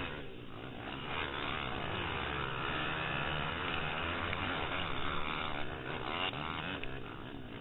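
Pitster Pro LXR160 pit bike's single-cylinder four-stroke engine revving up and down under racing load, heard from a helmet camera.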